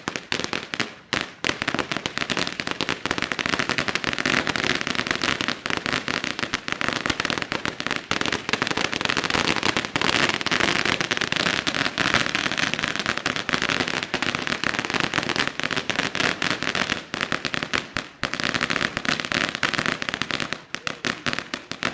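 Strings of firecrackers going off in a long, rapid run of crackling pops, with a few brief lulls.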